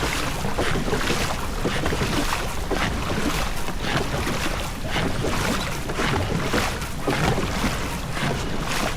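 Rushing water and wind noise from a rowing boat under way, with wind buffeting the microphone in short gusts.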